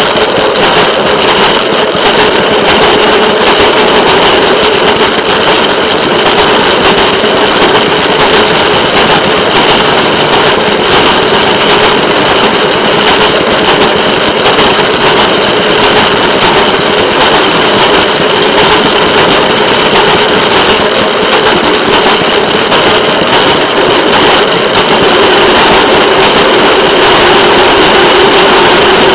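Moving train heard from a camera mounted on the rail vehicle: a steady engine drone over a loud, even rushing noise, getting slightly louder near the end.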